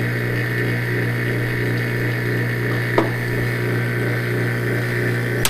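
Vacuum pump for a lathe's vacuum chuck running with a steady hum, holding the bowl by suction. A single small click about three seconds in.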